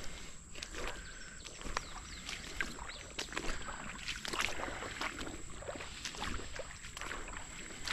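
Wading through shallow creek water: irregular splashes and sloshing from steps. A steady high-pitched whine sounds throughout.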